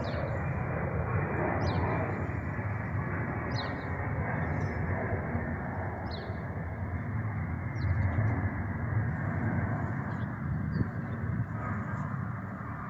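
Steady rumble of a transport aircraft's engines on approach to land, with small birds chirping briefly every second or two.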